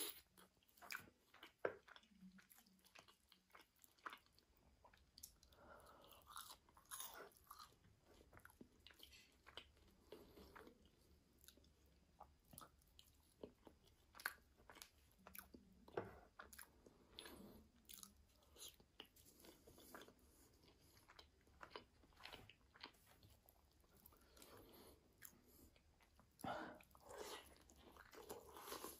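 Close-miked eating: bites and crunchy chewing of breaded chicken and grilled potatoes, a steady run of small crackles and clicks. A few louder bites come about a second and a half in, around the middle and near the end.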